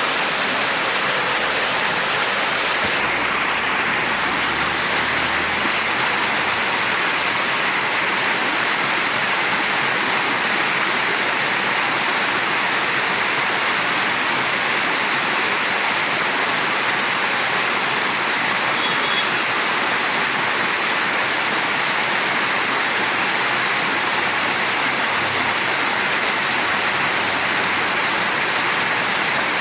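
Mountain stream rushing over rocks: a steady, unbroken rush of flowing water.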